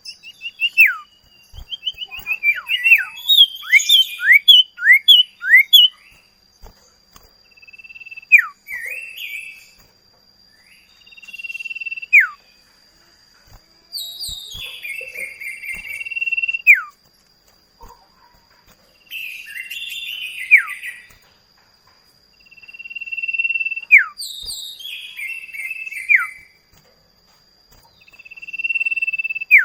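Common iora (sirtu/cipoh) song: a quick run of chirps and down-slurred notes at first, then repeated phrases every few seconds, each a level drawn-out whistle ending in a sharp downward slur.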